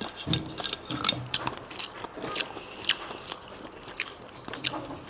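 Close-miked chewing of seafood, with irregular sharp, wet mouth clicks and smacks a few times a second. There is a short low hum about half a second in.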